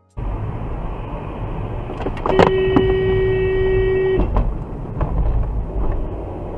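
Steady rumble of a moving vehicle's road and engine noise, with a few sharp knocks a couple of seconds in, then a car horn blaring steadily for about two seconds before cutting off.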